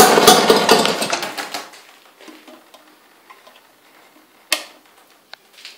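British Seagull Model 55 two-stroke outboard motor stopping: its firing beats slow and fade out over the first second and a half, then a single sharp knock about four and a half seconds in.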